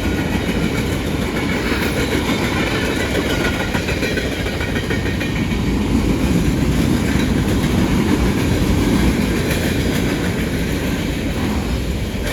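Freight cars of a CSX manifest train rolling past, a steady, continuous rumble and clatter of steel wheels on the rails.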